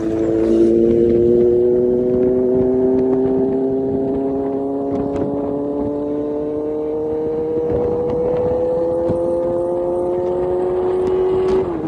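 Kawasaki Z900 inline-four engine running through a full aftermarket exhaust system, its revs climbing slowly and steadily, then its pitch dropping sharply near the end.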